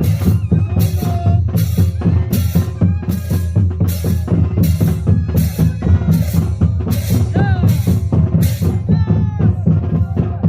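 Live moseñada band music: bass drums and snare drums keep a steady beat of about two strikes a second, with a faint melody over it. The sharp strokes stop about nine seconds in, while the music carries on.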